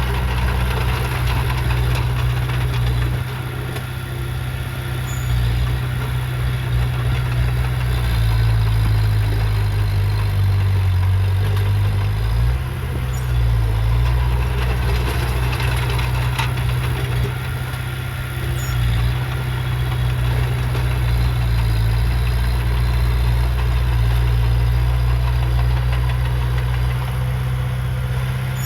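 Heavy diesel engine of a bulldozer or dump truck running steadily under light load, its low drone shifting in pitch a little about a third of the way in.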